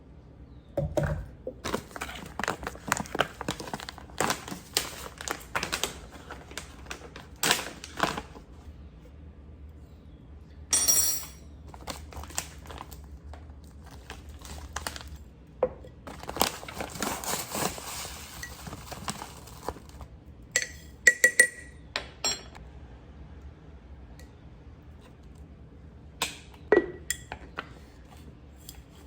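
Groceries and plastic containers being handled: a quick run of clicks and knocks, stretches of crinkling packaging, and a few short ringing clinks about two-thirds of the way through.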